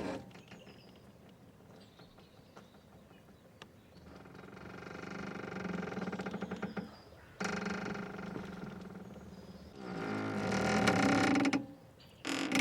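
Boat mooring ropes creaking under strain. After a quieter few seconds with faint clicks comes a run of long drawn-out creaks, each two to three seconds long, growing louder toward the end.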